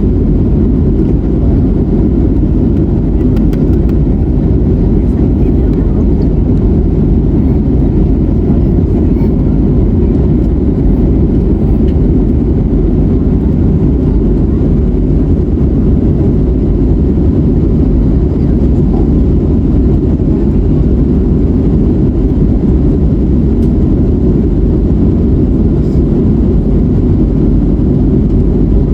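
Steady low rumble inside the cabin of an Airbus A321neo, the sound of its Pratt & Whitney PW1100G geared turbofan engines and airflow, heard from a seat near the wing. Loud and unchanging throughout.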